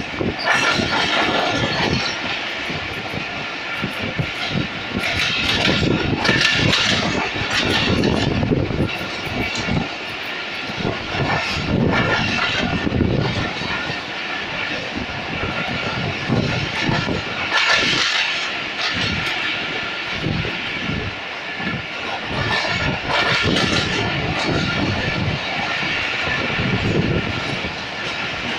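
Running noise of the 45 Up Pakistan Express passenger train, heard from a coach window: a continuous rumble and clatter of wheels on the rails, rising and falling a little in loudness.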